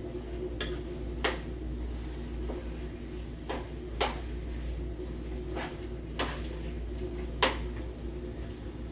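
Kitchen utensils clinking and knocking against dishes and pans, about six sharp knocks at irregular intervals, the loudest near the end, over a steady low hum.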